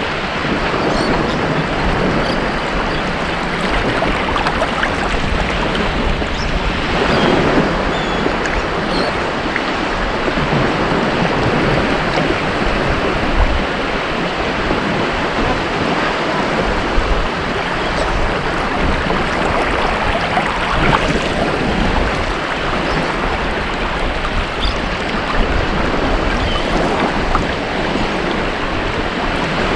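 Ocean surf washing onto a beach: a continuous rushing of breaking waves, swelling louder a few times, around 7 seconds in and again near 21 seconds.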